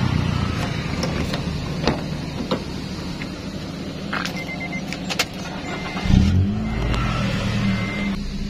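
Key clicking in a Honda car's door lock, then a few short electronic chime beeps, and about six seconds in the engine is started with the key and settles into a steady idle.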